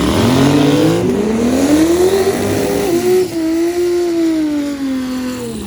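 Twin-turbo V10 Dodge Viper drag car at full throttle down the strip. Its engine note climbs steeply, steps once at a gear change about three seconds in, then holds high before falling away near the end.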